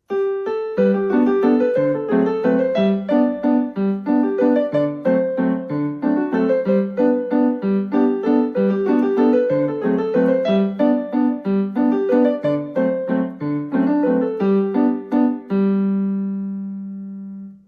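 Casio CTK-6300IN electronic keyboard playing a quick tune of notes over a lower accompaniment, ending on a held low note that fades and then cuts off suddenly. The keyboard sounds normally, with its repair finished.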